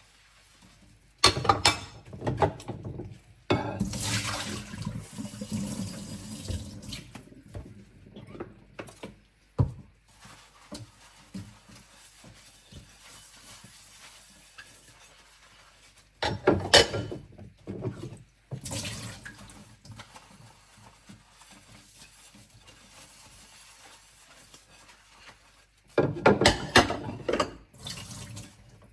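Dinner plates being scrubbed and washed by hand in a kitchen sink: water splashing and running in several loud bursts, with quieter stretches between, and a single sharp knock about ten seconds in.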